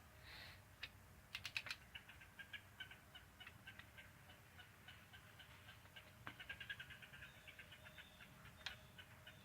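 Faint runs of quick metallic ticks from a ratchet wrench as the cylinder head bolts are turned their final quarter turn, with a few sharper clicks about a second and a half in and again near the end.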